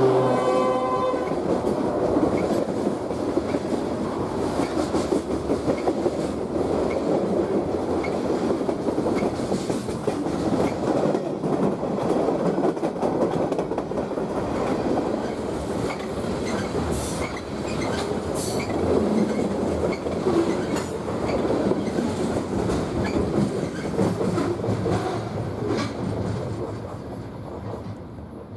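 A BNSF freight train passing close by. The locomotive's horn cuts off about a second in, and then the cars roll past with a steady rumble and clatter of wheels on the rails, fading away near the end as the train goes by.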